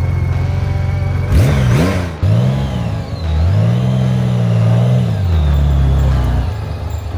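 Hot rod truck engine revving: a couple of quick blips of the throttle about a second and a half in, then a longer rev held for about two seconds before dropping back to a steady low idle.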